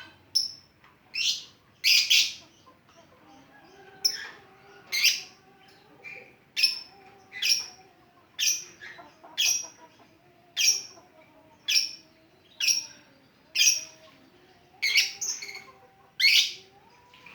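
Lovebird singing its 'ngetik' song: sharp, shrill chirping calls repeated about once a second.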